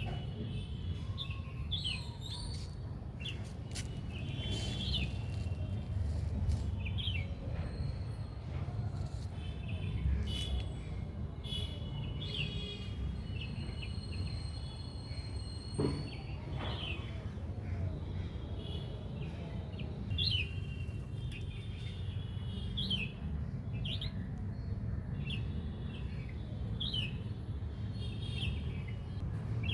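Small birds chirping, many short repeated calls throughout, over a low steady rumble.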